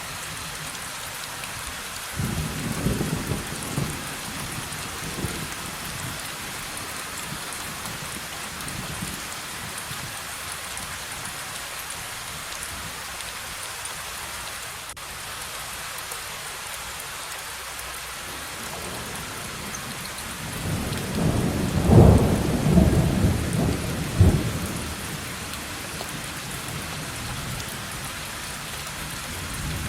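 Steady heavy rain with two rolls of thunder: a shorter rumble a couple of seconds in, and a louder, longer one about two-thirds of the way through.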